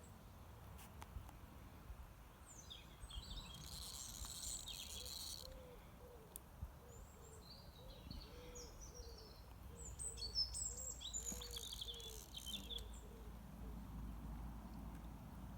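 Wild birds singing in two bursts of high chirping song, with a low call repeated about twice a second through the middle, over a steady low background rumble.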